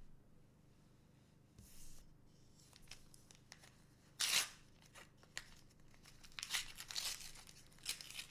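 A trading card booster pack being torn open and its wrapper crinkled by hand. There is a sharp rip about four seconds in and more crinkling rustles near the end.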